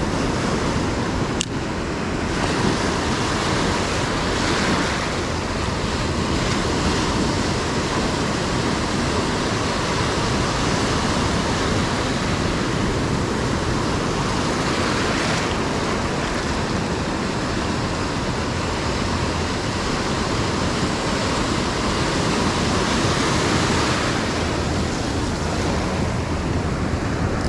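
Ocean surf breaking and washing up the beach in a steady wash of noise, with some wind on the microphone. A single sharp click about a second and a half in.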